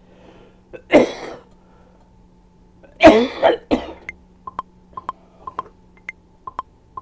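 A person coughs, once about a second in and then harder twice around the three-second mark. After that come a dozen or so short, sharp ticks in an uneven rhythm, each with a faint ring.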